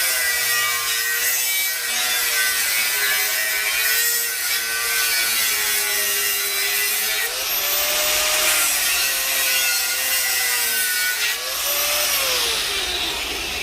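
Angle grinder cutting steel plate, its motor pitch sagging and recovering as the disc is pushed into the cut. It speeds up when eased off, about 7 seconds in and again near the end, then winds down.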